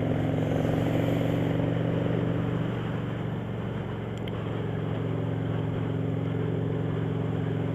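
Motorcycle engine running steadily under way, with road and wind noise. Its loudness dips slightly about three to four seconds in, then picks back up.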